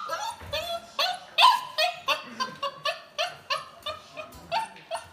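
A dog giving a rapid run of short, high yips and whines, about four a second.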